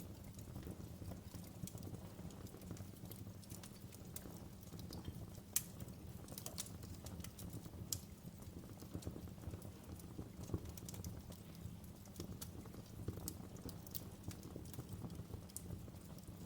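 Fireplace fire crackling: frequent small, irregular pops and snaps over a steady low rumble, with one sharper pop about five and a half seconds in.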